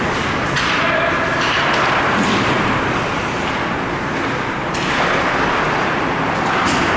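Ice hockey rink ambience: a steady wash of arena noise with a few sharp knocks.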